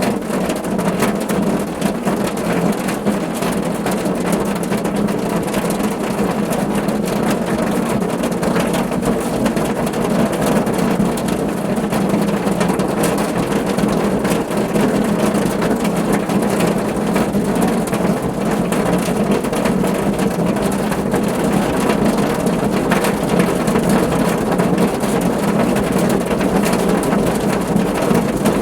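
Steady rain falling on a car roof, a dense, even patter of many drops.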